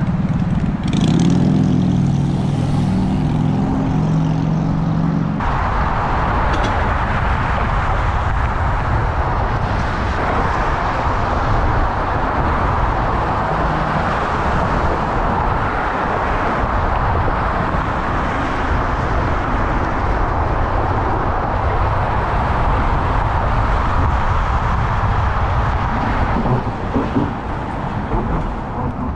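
Wind and road noise rush steadily over the microphone of a moving road bike. For the first five seconds a motor vehicle's engine is also running loudly, then it drops away.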